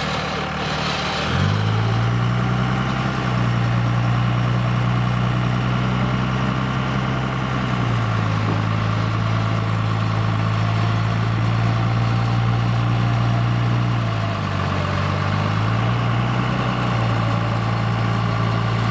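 Electric winch motor straining under load as it pulls a mud-bogged truck camper. It is a steady low drone that starts abruptly about a second and a half in and drops in pitch twice as the load changes, over the truck's engine held at raised revs to keep the battery voltage up.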